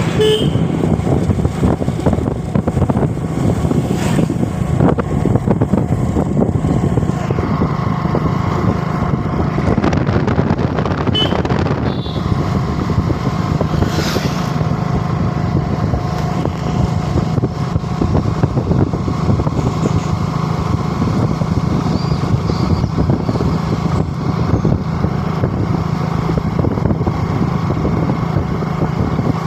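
Motorcycle running steadily while being ridden, a constant engine hum over a rushing noise.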